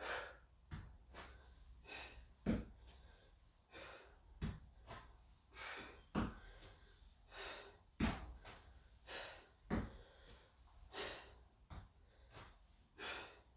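A person breathing hard during exercise, with short forceful breaths in and out every second or so. Several dull thumps come about every two seconds.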